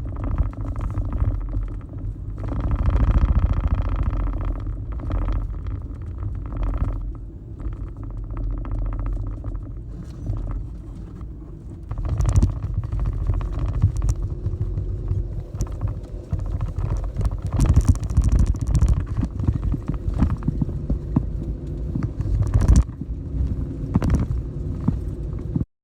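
Pickup truck carrying a camper in its bed, driving over a rough dirt road: a steady low rumble with scattered knocks and rattles from the bumps.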